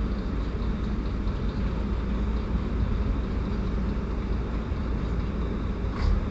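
Steady low rumble of a train approaching from a distance, mixed with the railway station's background noise. A brief high-pitched sound comes near the end.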